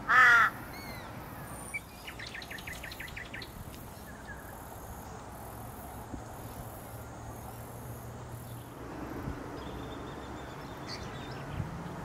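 A single loud, harsh bird call right at the start, then a quick run of short high chirps from a smaller bird about two seconds in, over steady outdoor background noise.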